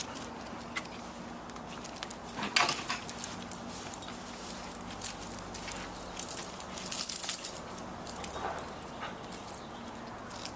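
A dog on a leash, its collar and leash hardware jingling in quick metallic clinks, busiest from about two and a half to eight seconds in.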